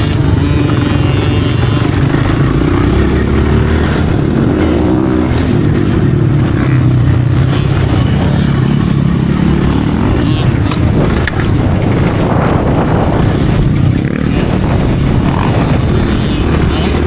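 Dirt bike engine running loud and close, its pitch rising and falling as the throttle is worked.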